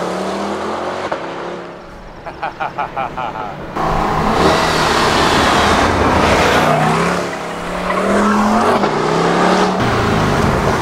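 Chevrolet C8 Corvette's 6.2-litre V8 under hard acceleration on the stock exhaust. The engine note falls away first, and a quieter stretch of rapid pulsing follows. About four seconds in it jumps suddenly to full throttle and rises in pitch, dipping briefly at a gear change and climbing again as the car drives past.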